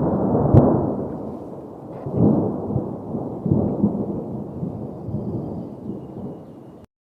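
Low rumbling noise that swells and fades several times, then cuts off abruptly near the end.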